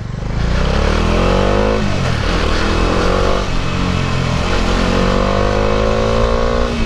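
Bajaj Dominar 400's single-cylinder engine accelerating through the gears, its pitch climbing and then dropping at a shift about two seconds in, again about three and a half seconds in, and once more at the very end.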